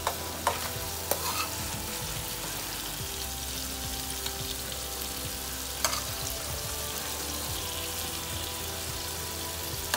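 Red onions, tomatoes and ginger sizzling in hot oil in a frying pan: a steady hiss, with a few sharp clicks about half a second, a second and six seconds in.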